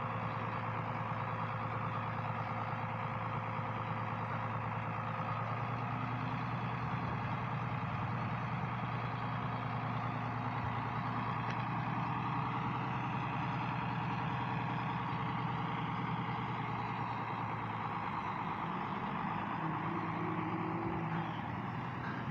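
International 886 tractor's diesel engine running steadily at a constant speed while baling hay.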